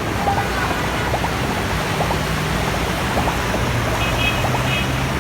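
Floodwater rushing in a steady hiss. A few short high beeps come in about four seconds in.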